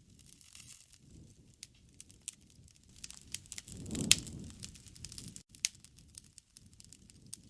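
Wood campfire crackling, with scattered sharp pops over the low rumble of the flames. The flames swell briefly about halfway through, with one loud pop about four seconds in.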